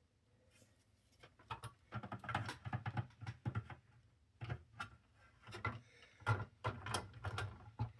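Irregular clicks, taps and knocks of plastic parts being handled and fitted as a Sony CDP-CX355 300-disc CD changer is put back together, starting about a second in.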